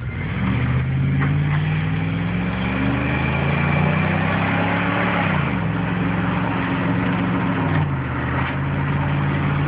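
Pickup truck engine pulling under acceleration, its pitch climbing steadily and then dropping about five seconds in as the transmission shifts up; the pitch steps down again a little before the end.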